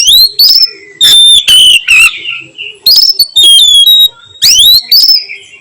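Oriental magpie-robin (kacer) singing loud whistled phrases. Its rising 'nyiul' whistles sweep upward three times, at the start, about three seconds in and near the end, with shorter warbled notes between.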